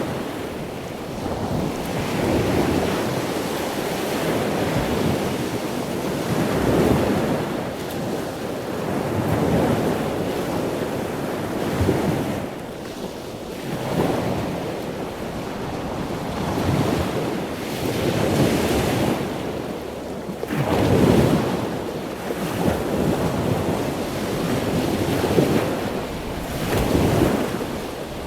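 Small sea waves breaking and washing up the beach. The wash swells and falls back every couple of seconds in a continuous, uneven rhythm.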